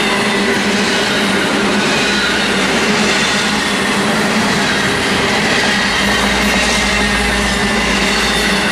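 Intermodal freight train's stack cars rolling past steadily, with a held high squeal from the wheels over the rumble.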